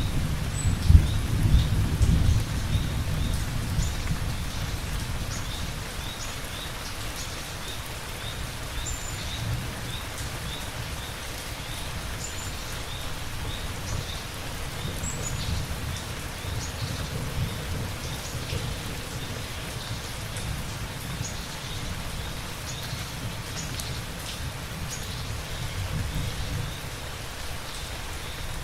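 Steady heavy rain with rolling thunder: a loud low rumble at the start dies away over the first few seconds, and softer rumbles swell again about midway and near the end.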